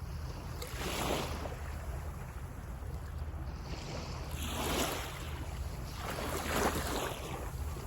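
Small waves breaking on a sandy beach, each wash swelling and fading, three times, over a low rumble of wind on the microphone.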